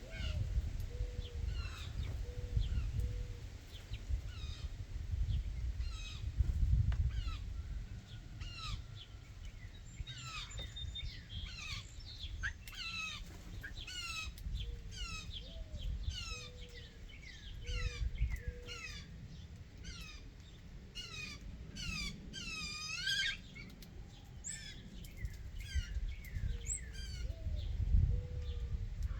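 Several backyard songbirds chirping and calling, with many short, quick down-slurred notes repeating throughout and a few low short notes in between, over a low rumble.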